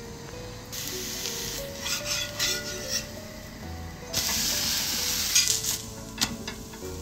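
Dosa sizzling on a hot iron tava in two spells of hissing, about a second in and again from about four seconds, with a few scraping clicks as the cooked dosa is lifted. A soft background melody plays throughout.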